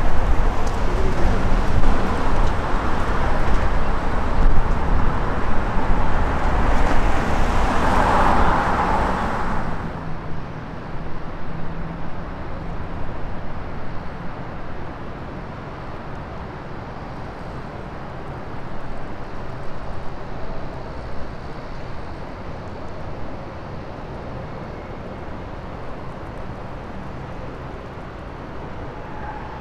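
City street traffic noise for about the first ten seconds. It then cuts to the quieter, steady rolling noise of a freight train of covered hopper cars passing on the tracks.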